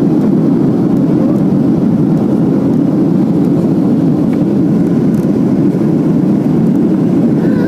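Airliner's engines and rushing air during the climb after take-off, a steady low roar with no change.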